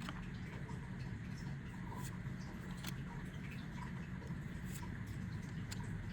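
Trading cards being handled, with light scattered clicks and rustles over a steady low hum.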